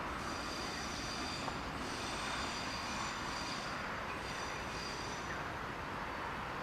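Train rolling past with a steady rumble, its wheels squealing in high-pitched tones that come and go three times.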